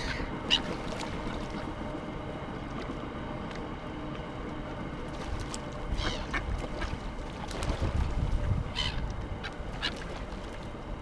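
Waterbirds calling in a few short, separate squawks, over a low rumble of wind on the microphone.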